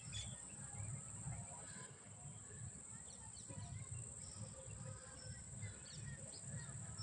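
Insects droning in a steady high-pitched buzz, with scattered short bird chirps and a low rumble beneath.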